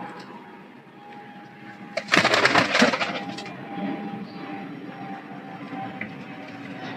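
A flurry of pigeon wingbeats: a quick run of sharp flaps about two seconds in, lasting about a second and a half, over a faint steady hum.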